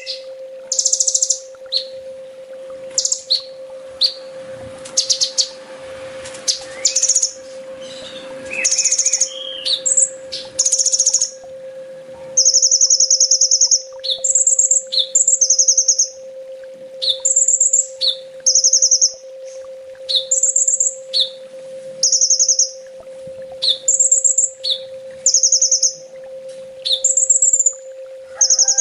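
Kolibri ninja sunbird singing: fast, very high-pitched trilled chirps in short bursts. They come irregularly at first, then, about halfway through, settle into alternating phrases about once a second. A steady low hum runs underneath.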